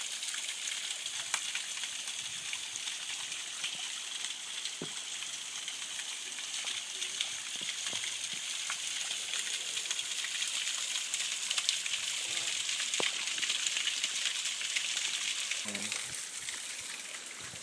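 Small waterfall rushing: a steady hiss of falling water, with a few faint clicks.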